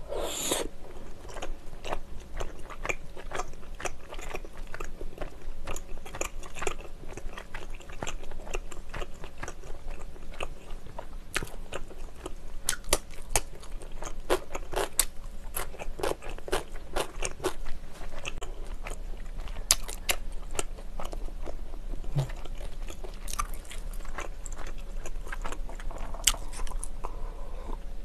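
Close-miked chewing and biting of spicy tteokbokki with chewy kirimochi rice cakes, many small wet mouth clicks in quick succession. It is joined by crisp crunches of pickled yellow radish, and gulps of a drink near the end.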